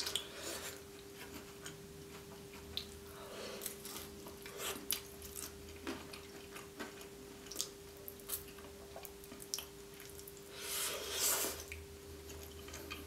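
Close-miked chewing of a cheese-filled meat pie: soft wet mouth clicks and smacks at irregular intervals, with a louder stretch of chewing near the end. A faint steady hum runs underneath.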